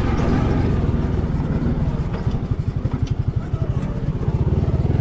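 Vehicle engine running close by at low revs. About a second and a half in it settles into a slow, even chugging beat, with a few light rattles.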